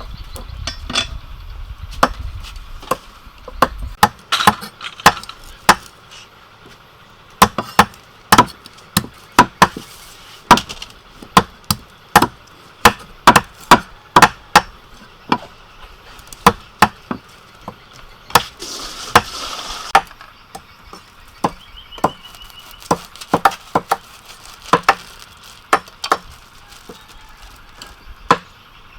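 Kitchen knife chopping on a cutting board while food is sliced thin: sharp, separate knocks at an uneven pace, roughly one to two a second, with a brief scrape about two-thirds of the way through.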